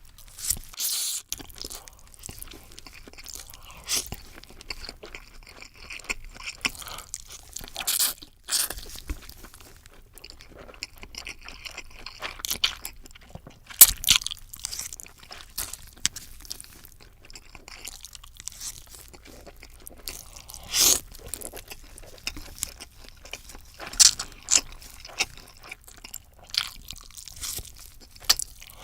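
Close-miked eating: irregular crunchy bites and chewing, with one loud crunch about halfway through.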